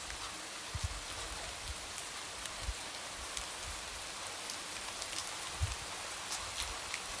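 Light rain tapping against a window: a steady soft hiss with many scattered sharp drop ticks, and a few dull low thuds about a second in, near the middle and toward the end.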